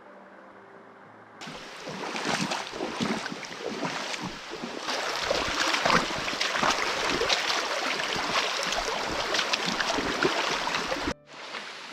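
Loud, irregular splashing of river water close to the microphone. It starts abruptly about a second and a half in and cuts off suddenly near the end.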